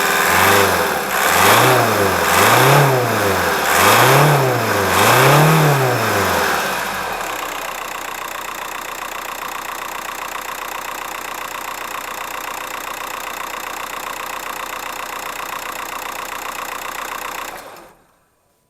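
1.9 TDI AVQ four-cylinder turbodiesel engine revved four times in quick succession, then settling to a steady idle, then switched off near the end.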